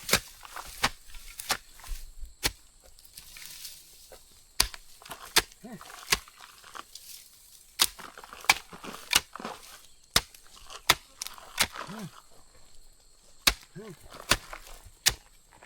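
Irregular sharp chopping strikes, about one or two a second, from a hand tool cutting.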